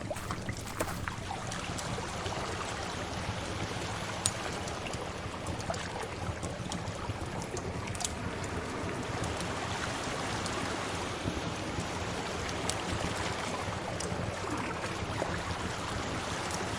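Steady wash of sea waves with occasional sharp pops and crackles from a wood fire, the loudest pop about four seconds in.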